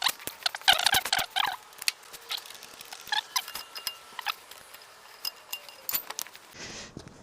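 A car jack being worked under a car: a string of metal clicks and knocks with squeaky, creaking bits, busiest about a second in.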